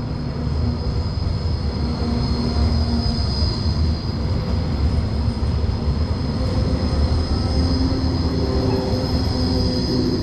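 Rail vehicle running close by: a loud low rumble with a steady high-pitched squeal from the wheels, cutting off suddenly at the end.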